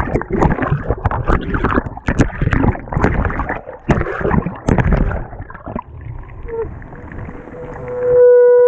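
Water and wet laundry sloshing and splashing around a top-load washer's agitator as it churns, heard from right on the agitator, with knocks and clicks, easing off after about six seconds. Near the end a loud, steady, single-pitched hum or drone starts.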